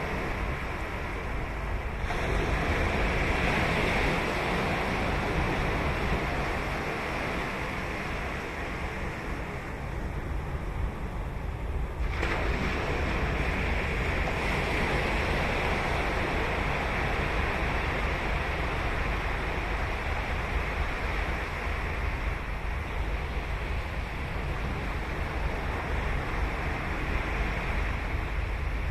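Ocean surf breaking on a beach: a continuous wash of waves, with a fresh wave crashing in about 2 seconds in and again about 12 seconds in.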